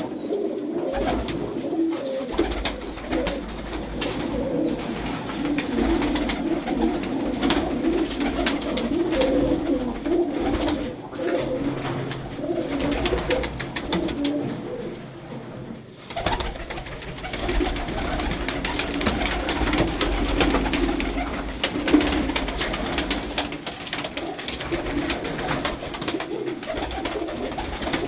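Domestic pigeons cooing continuously, many overlapping low warbling coos, with scattered small clicks.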